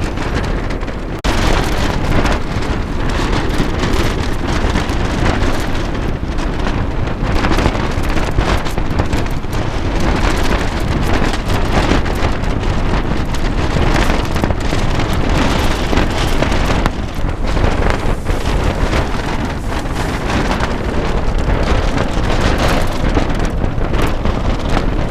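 Strong wind in a mountain windstorm, a loud, steady rush buffeting the microphone, with a sudden jump louder and brighter about a second in.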